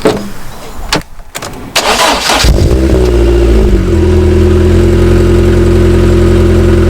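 An MG TF's Rover K-series four-cylinder engine is started through a TT aftermarket exhaust. After a few knocks and a brief crank it catches about two and a half seconds in, its revs flare and fall back, and it settles into a steady idle.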